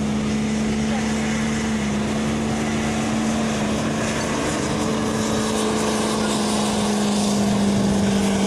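Twin-turbocharged diesel pickup engine at full throttle under heavy load, pulling the sled in a steady, loud drone that sags slightly in pitch a couple of times, then cuts off abruptly at the end.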